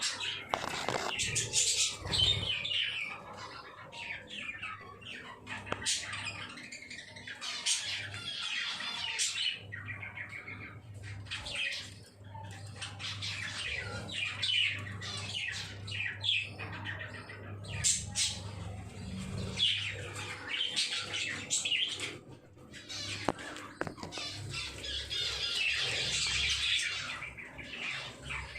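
Pet lovebirds chirping and squawking continuously in rapid, overlapping high calls, with a low steady hum underneath.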